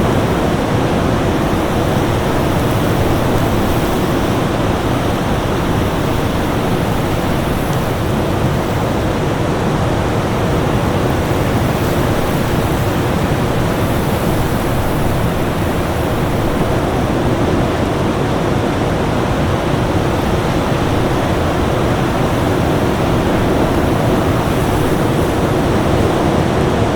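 Winter storm wind as a steady, dense rushing noise without distinct gusts, with a faint steady tone underneath.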